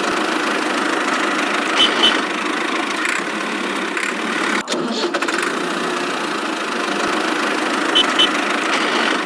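Engine running steadily at idle, with a pair of short sharp clicks about two seconds in and again about eight seconds in.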